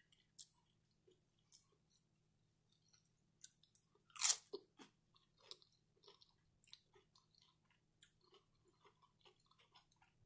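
Close-up chewing of cheesy shrimp nachos with tortilla chips: scattered soft crunches and wet mouth clicks, and one loud crunch about four seconds in.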